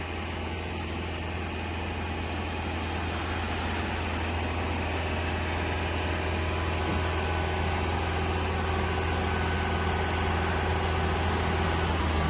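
Engine running steadily with a low, even hum, growing slightly louder.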